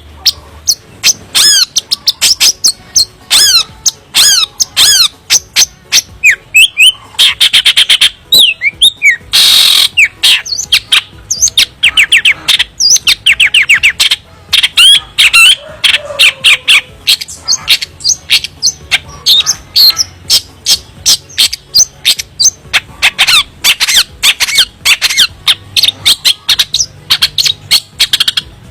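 Long-tailed shrike singing a fast, varied song of sharp chirps and falling whistles, repeated in quick runs.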